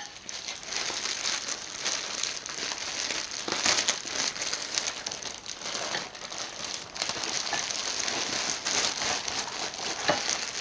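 Takeout packaging crinkling and rustling with scattered crackles as a buttery seafood boil is poured out of it into a bowl.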